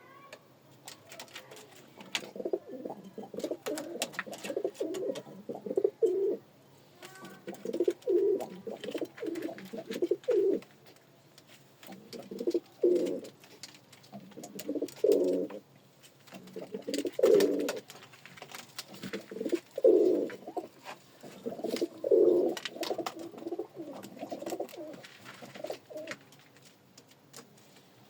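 Domestic pigeon cooing in repeated bouts of low, throbbing coos, each bout lasting one to four seconds, with short pauses between them.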